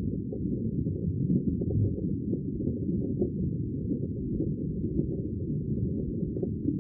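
Sea water as a steady, deep, muffled rumble, with nothing above a low pitch and no distinct wave breaks.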